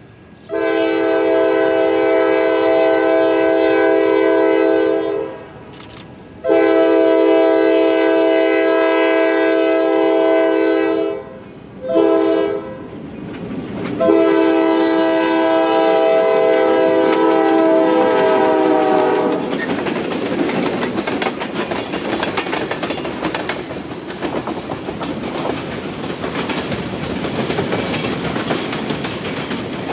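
Locomotive air horn sounding a chord in four blasts, long, long, short, long: the grade-crossing signal. The pitch drops at the end of the last blast as the locomotive passes. Then the train's cars roll steadily by with a rushing rumble of wheels on rail.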